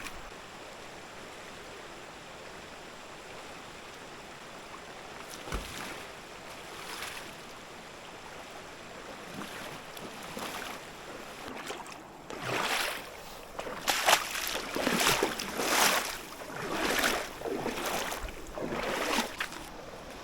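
Steady rush of a mountain creek. Past the middle comes a run of about ten short, rough rushing noises, roughly one every half second to second, louder than the creek.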